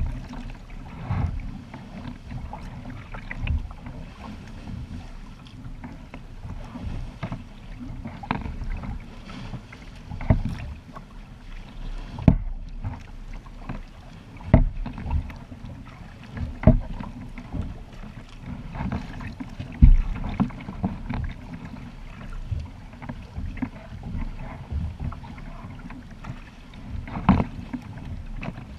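Kayak paddle strokes and water splashing and slapping around the boat, sharp splashes every couple of seconds over a steady low rumble.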